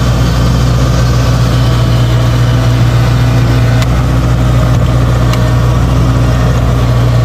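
Kubota DC-70 combine harvester's diesel engine running steadily at a constant speed.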